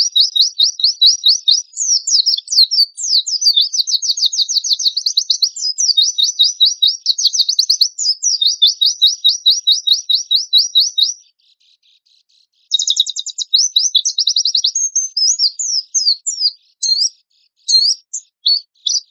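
White-eye (pleci) singing: long runs of rapid, sharp, high repeated notes at about seven a second, the energetic 'rough shot' song kept as trigger audio for caged white-eyes. It breaks off for just over a second about eleven seconds in, then resumes with a quick burst and more varied, broken phrases.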